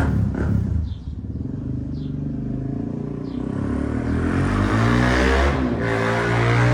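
Suzuki LTZ400 quad's single-cylinder four-stroke engine running loud through a Yoshimura exhaust with the spark arrestor removed. The revs drop about a second in, then climb again toward the end.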